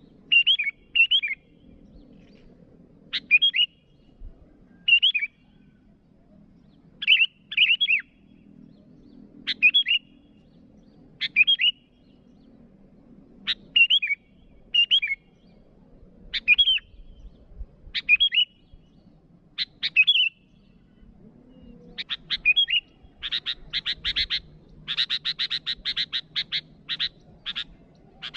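Sooty-headed bulbul calling: short bubbly phrases of two or three notes repeated every second or two, then a fast chattering run of clipped notes near the end.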